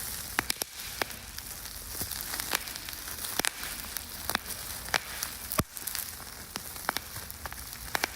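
Bubble wrap being popped, irregular sharp pops over a steady hiss, imitating the crackling of a campfire's burning embers.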